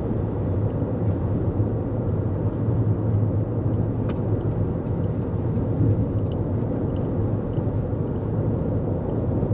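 Steady road and tyre rumble of a 2024 Toyota Corolla Cross driving on the highway, heard inside the cabin, with one faint tick about four seconds in.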